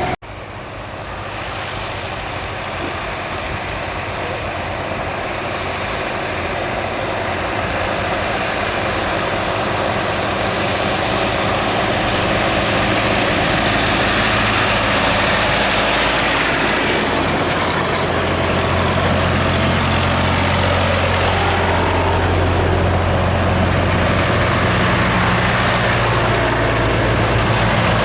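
A heavy vehicle engine running, growing louder over the first ten seconds or so, with a strong low, steady hum from about 17 seconds in.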